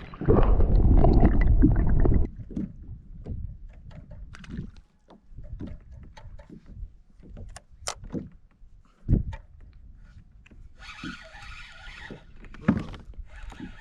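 Handling noise aboard a fishing kayak: a loud rumbling burst for the first two seconds, then scattered knocks and clicks of gear against the hull, and a short hissing patch near the end.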